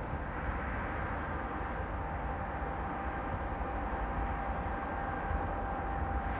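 Jet airliner engines running steadily at a distance, with a steady whine over the noise, while strong wind buffets the microphone with a low rumble.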